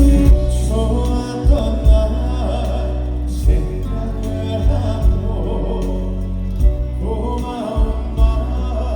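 Live band playing a slow ballad, with sustained keyboard or string chords and a soft low beat about every second and a half.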